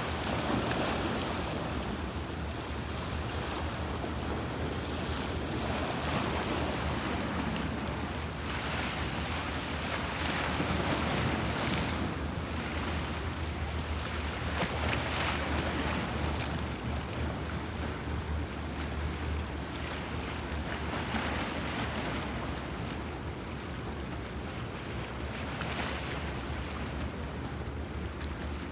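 Sea waves washing and splashing against the Bosphorus shore, a fresh wash every few seconds, over a steady low rumble.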